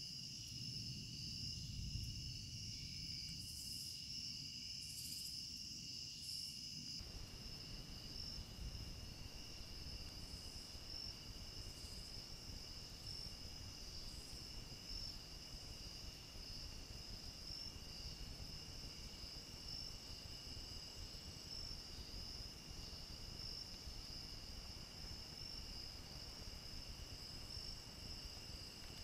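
Crickets chirring in a steady chorus, a continuous high-pitched trill at two steady pitches.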